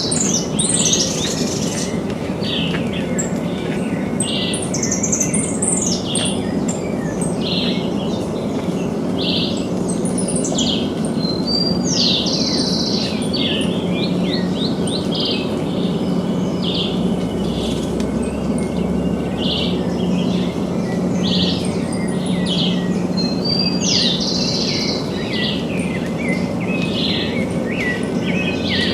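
Several small birds chirping and trilling over and over in short, high calls, over a steady low rumble of background noise.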